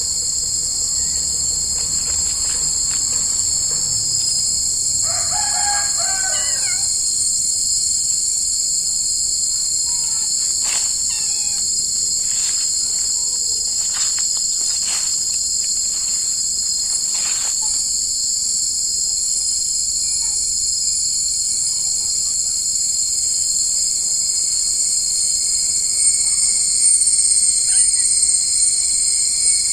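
Insect chorus of crickets or cicadas, a steady high-pitched buzzing. About five seconds in, a rooster crows once. Short chirps are scattered through the middle.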